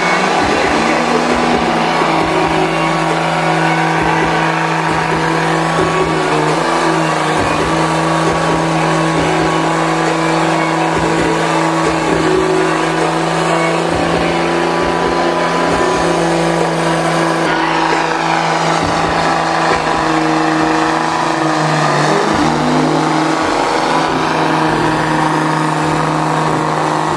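Monster truck and mud truck engines running hard at a steady, high pitch while the two trucks pull against each other in a tug-of-war.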